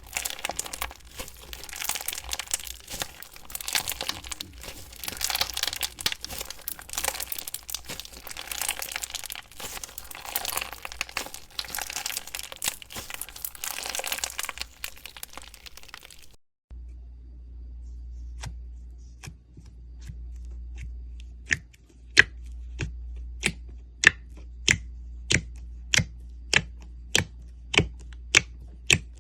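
Slime being squeezed and stretched, crackling and crinkling densely. About halfway through the sound cuts to a low steady hum with sharp clicks or pops repeating a little under twice a second, louder toward the end.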